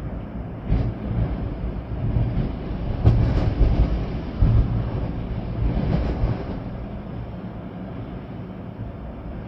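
Storm wind blowing in strong gusts with rain, a deep rumbling roar that swells several times and eases off after about six seconds.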